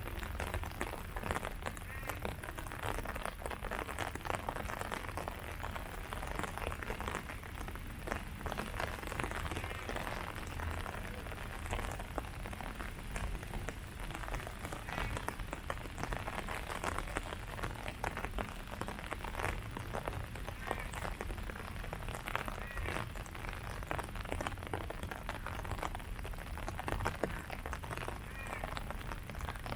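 Steady rain falling on tree leaves: a dense, even spread of small drop hits that goes on without a break.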